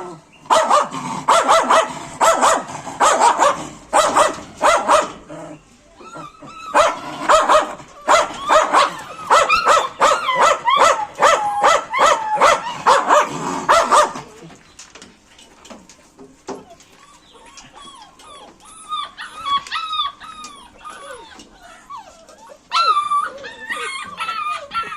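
Dogs barking loudly and rapidly, one bark after another, for about the first fourteen seconds, then quieter whining and yipping that slides up and down in pitch, with a louder flurry of yips near the end.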